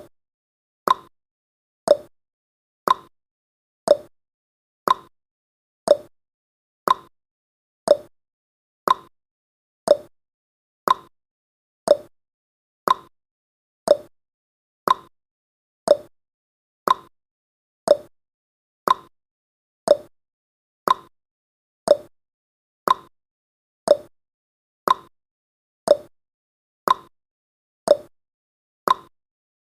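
Countdown timer's clock tick sound effect: one short, sharp tick every second, alternating slightly higher and lower like a tick-tock, with silence between.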